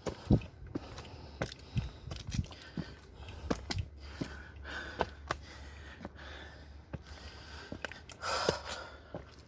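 Handling noise of a handheld camera as a person moves about on foot: scattered sharp clicks and knocks over a low rumble, with a breath near the end.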